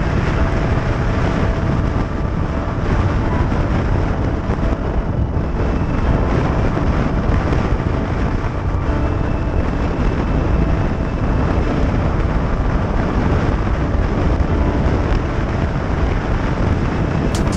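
Motorcycle running steadily at road speed, with heavy wind noise on the microphone.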